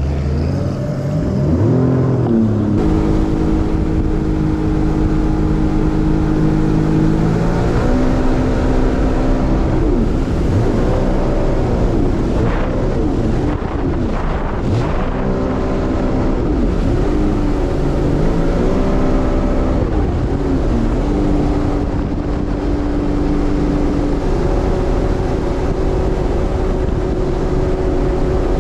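A watercraft engine opened to full throttle, its pitch rising quickly at the start and then holding at high revs. In the middle stretch the engine note swoops up and down several times before it steadies again at speed.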